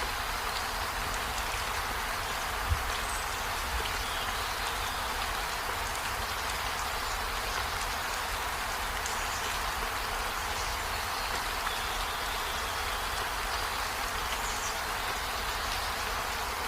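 Steady rain falling, an even hiss of drops, with one sharper louder tap about three seconds in.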